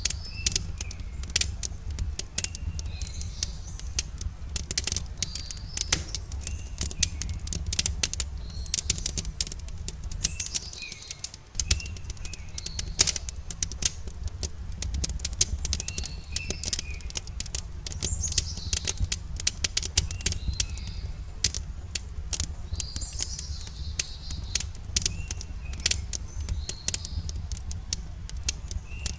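Wood campfire crackling with frequent sharp pops over a steady low rumble, while small birds chirp repeatedly in the background.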